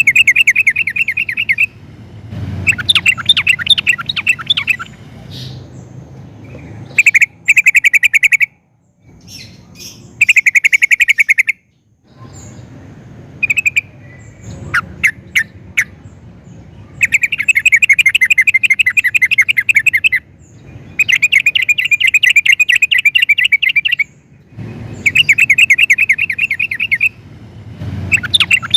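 Yellow-vented bulbul (trucukan) singing: loud phrases of fast, bubbly chattering notes, each lasting one to three seconds, repeated with short pauses between.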